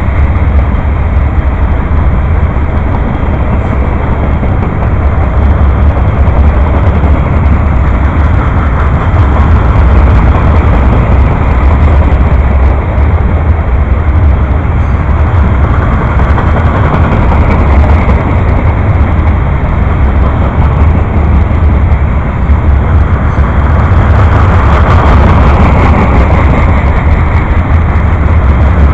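Passing train with a steady, loud low rumble and a noisy wash of sound above it that swells a little twice.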